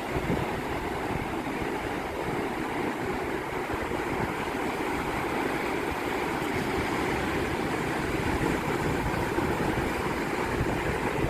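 Sea waves breaking and washing on the shore: a steady rush of surf, with wind buffeting the microphone.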